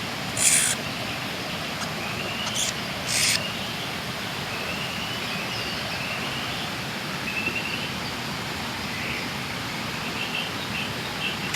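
Short, thin bird chirps repeating in the middle stretch, over a steady outdoor hiss, with a few brief rustling bursts in the first few seconds.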